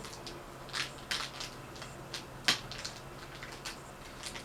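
Scattered small clicks, taps and rustles of hands handling a smoke detector's mounting hardware and screws, with one sharper click about halfway through.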